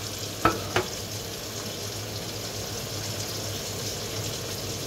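Stir-fry sizzling in a frying pan over a steady low hum, with two short metallic clinks about half a second in.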